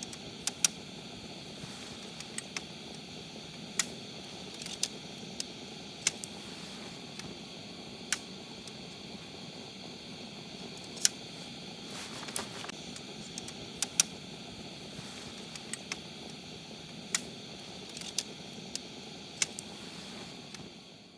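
Wood campfire crackling, with irregular sharp pops about once a second over a steady hiss.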